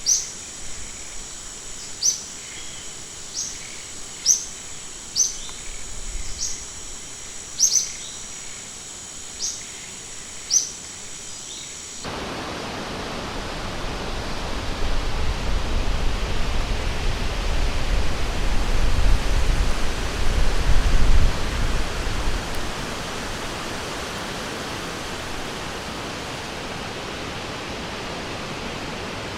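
A bird repeats short, high chirps about once a second over a steady high insect drone. About twelve seconds in, this cuts off suddenly to the even rushing of a river, which swells with a deep rumble for several seconds before settling.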